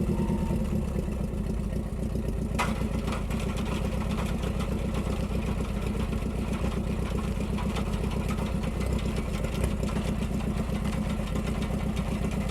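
Ford 2N tractor's four-cylinder flathead engine running steadily under load, driving a post hole digger auger. There is a sharp knock about two and a half seconds in.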